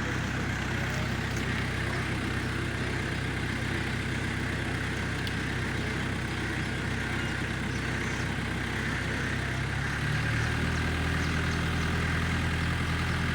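A rescue vehicle's engine idles steadily, then rises slightly in pitch and gets louder about ten seconds in.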